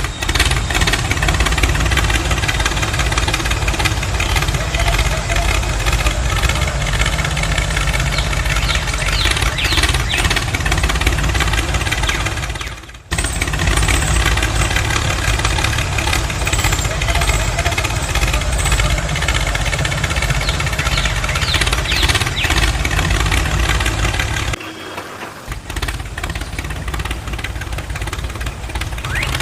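Engine running steadily, with a pulsing low end. It cuts off abruptly and resumes twice, about 13 seconds and about 25 seconds in.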